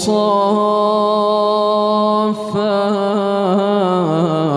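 A man's voice chanting Quran recitation in melodic tajweed style, drawing out the vowel of a word as one long held note. It breaks off briefly about two and a half seconds in, then goes on with wavering ornaments and steps slightly down in pitch near the end.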